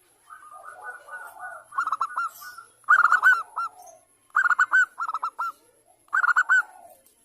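Zebra dove (perkutut) singing: a soft rolling trill, then several short bursts of rapid, clipped cooing notes repeating about every second or so.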